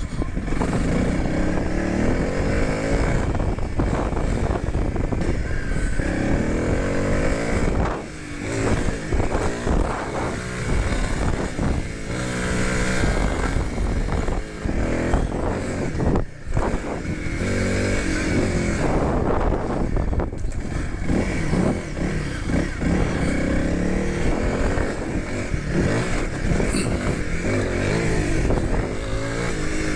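Honda CRF300L's single-cylinder four-stroke engine being ridden hard, its note rising and falling with the throttle and gear changes. The engine sound drops briefly about 8 and 16 seconds in as the throttle is rolled off.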